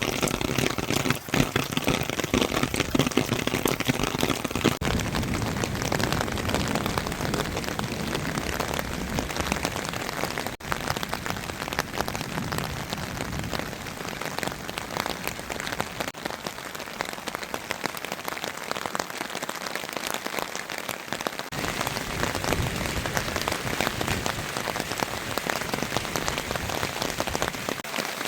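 Steady heavy rain falling, a dense mass of individual drop impacts.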